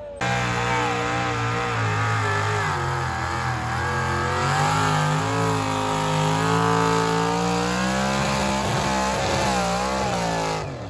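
Pulling tractor's engine running hard under load, its pitch wavering up and down as the revs change. It starts abruptly and dies away near the end.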